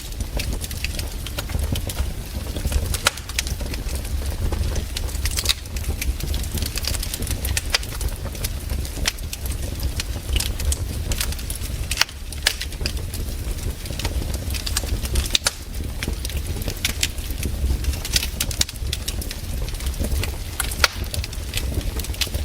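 Wood campfire crackling, with irregular sharp pops scattered throughout over a steady low rumble.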